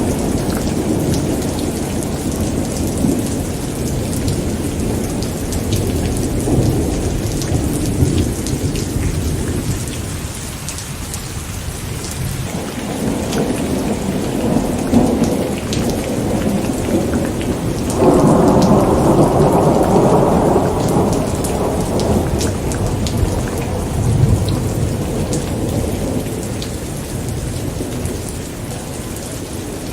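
Steady rain with thunder rumbling and rolling in slow swells. A little past halfway a louder peal of thunder breaks in suddenly and rumbles on for several seconds before easing off.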